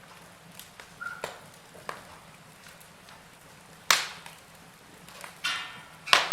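Wood fire crackling: scattered sharp pops and snaps, the loudest about four seconds in and near the end, with a short hiss shortly before the last pop.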